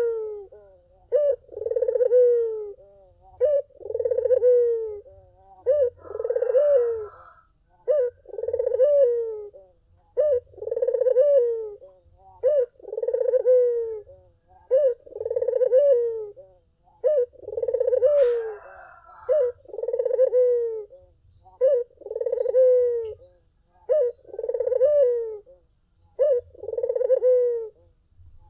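Barbary dove (puter) cooing over and over: a short note followed by a longer coo that falls at the end, repeated about every two seconds.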